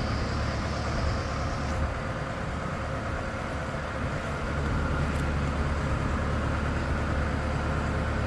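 A vehicle engine running steadily with a low rumble and a constant hum. A faint high hiss stops about two seconds in.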